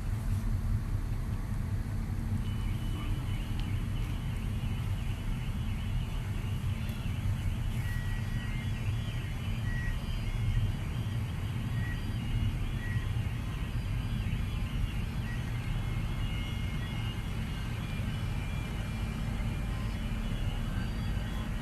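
Steady low rumble and hum of a departing ferry's engines, with birds calling in short, repeated high chirps from a couple of seconds in.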